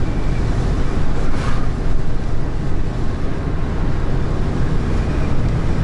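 Steady drone of a GAZelle Next van's engine with road and wind noise, heard from the moving van at a constant speed.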